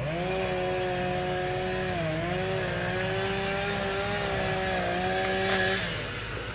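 Chainsaw revved up to full throttle and held there, its pitch dipping briefly about two seconds in, then dropping back toward idle near the end.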